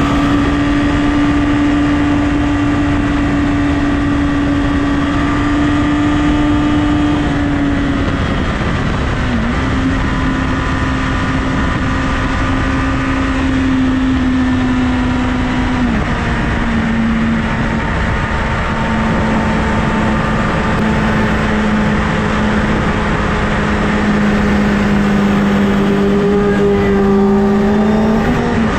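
Honda CBR1000RR sport bike's inline-four engine running at high revs at highway speed, with heavy wind noise. Its pitch steps down a few times and sinks slowly, then starts rising again as the throttle opens near the end.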